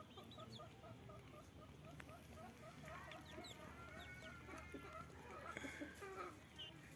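Backyard chickens clucking faintly: a quick, even run of short notes, about four or five a second, with a longer drawn-out call midway.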